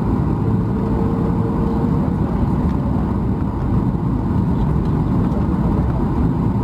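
Steady low rumble of a Boeing 737 MAX 8's CFM LEAP-1B engines and airframe heard from inside the passenger cabin, even and unbroken throughout.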